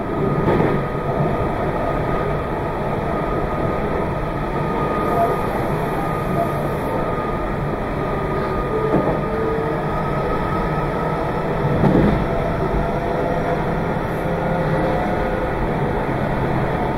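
Meitetsu 2200 series electric limited express train running, heard from on board: a steady rumble with a few faint steady tones above it, and one brief louder knock about twelve seconds in.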